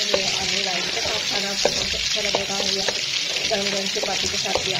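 Sliced onions, garlic and ginger sizzling steadily in hot oil in a pan, stirred with a wooden spoon that knocks and scrapes against the pan several times.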